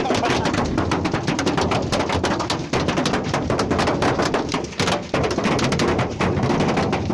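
Dense, rapid, irregular clatter of many small hard impacts, loud throughout, cutting off abruptly near the end.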